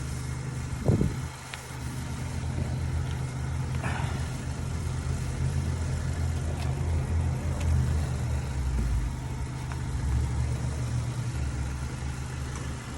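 A car engine idling steadily, with a brief thump about a second in.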